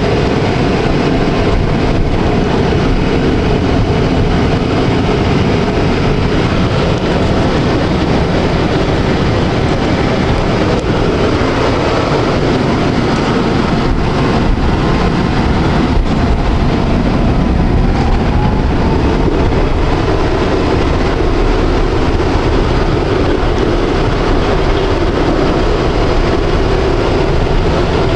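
Electric tram running along its tracks: a steady rumble of wheels on rail, with a few faint clicks and a faint rising motor whine a little past the middle.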